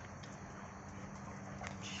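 Two dogs playing, their paws pattering and scuffling on the ground, with a few sharp clicks near the end, over a steady background chirring of insects.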